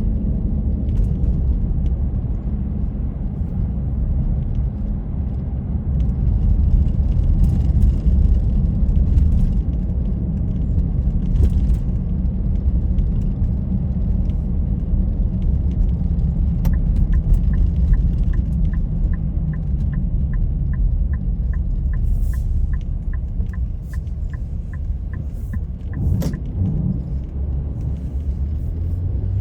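Steady low rumble of a car driving on the road. Past the middle, a turn signal ticks about two and a half times a second for about ten seconds, then stops.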